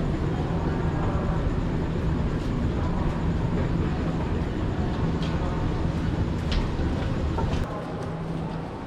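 Kenya SGR passenger train running, heard inside the coach: a steady low rumble and hum with a few light clicks. The rumble drops away sharply near the end.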